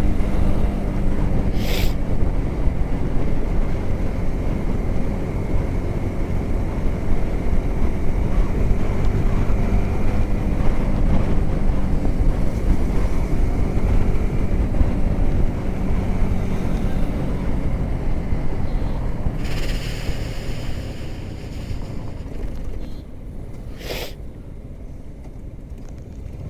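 Yamaha R15M's single-cylinder engine running steadily under riding speed, buried in heavy wind noise on the microphone; the rider says its sound has become different. Engine and wind get quieter over the last few seconds, and there are sharp clicks near the start and near the end.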